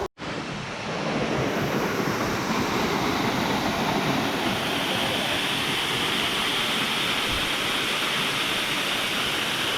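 Steady rushing roar of a large waterfall, heard close.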